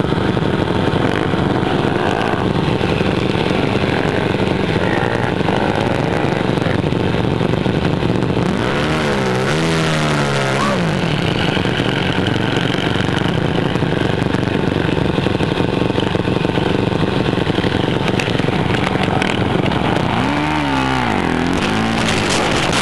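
Motocross dirt bike engine running under way in sand dunes, its pitch swinging up and down as the throttle is worked, once about nine seconds in and again near the end.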